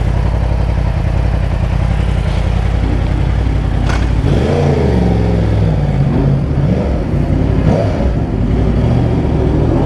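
2024 Yamaha R1's crossplane inline-four on its stock exhaust idling steadily, then revved up and down several times from about four seconds in.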